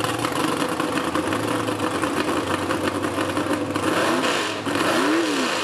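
Truck engine running loudly at a truck pull, its pitch rising and falling sharply twice near the end as it is revved.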